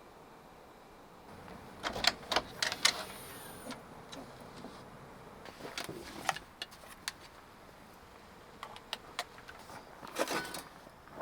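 Objects being handled, with clinks and clatters coming in three clusters: about two seconds in, around six seconds in, and near the end.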